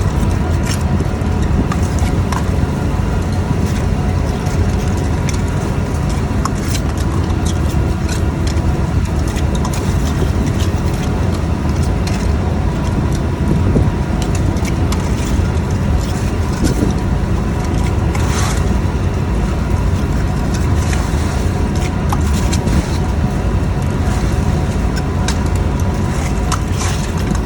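Steady, loud drone of a fishing boat's engine and deck machinery, with scattered clicks and knocks on top.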